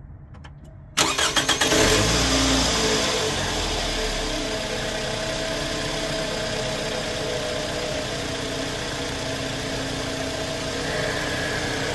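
2008 Scion xB's 2.4-litre four-cylinder engine cranked by the starter about a second in, catching with a brief flare of revs, then settling into a steady idle. It is running on fresh oil treated with Liqui Moly Ceratec, which the owner finds makes the engine a lot quieter.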